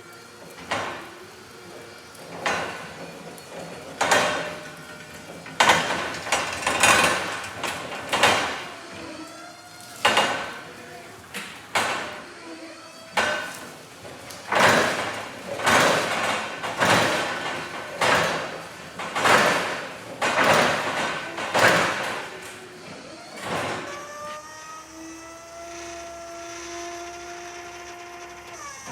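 A string of loud knocks and clatters, roughly one a second. Near the end comes the steady whine of the Atlet 200BTE electric reach truck's motor, rising in pitch as it starts and then holding steady.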